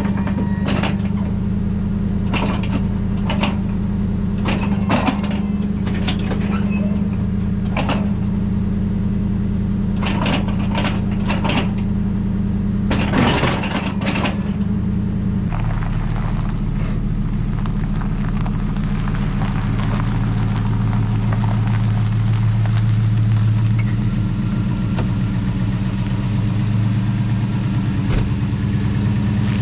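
Plow truck engine running steadily, with a series of sharp clicks and knocks over the first half. About halfway through the engine note shifts lower, then swells for a few seconds.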